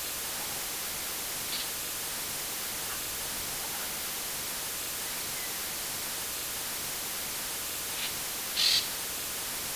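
Forest ambience recording: a steady hiss with a faint short bird call about a second and a half in and a louder brief one near the end.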